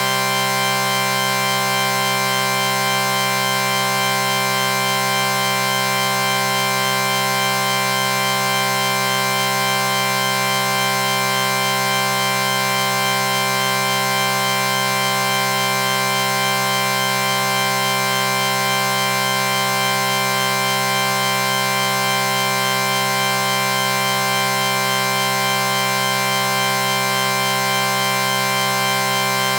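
A held chord sound effect: several steady tones sounding together, unchanging in pitch and loudness.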